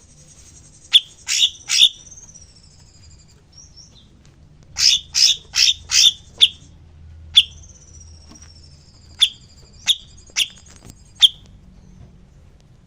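Songbird calling with short, sharp chirps, singly and in quick runs of three to five, over a thin high whistle that slowly slides down in pitch.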